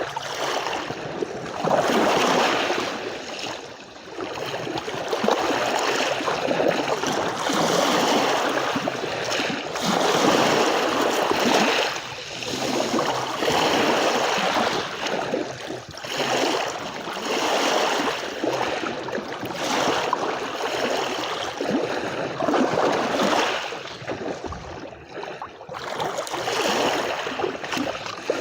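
Small sea waves washing onto a beach, each rush of water swelling and fading away every few seconds.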